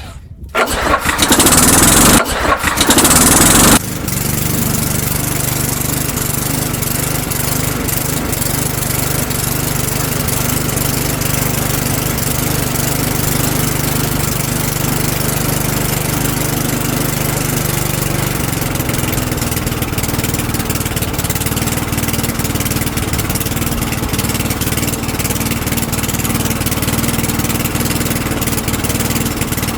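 Tecumseh four-stroke lawnmower engine on a Sears Craftsman Eager 1 starting up, very loud for the first few seconds. It then drops to a lower, steady running note and keeps running to circulate freshly added 10W30 oil.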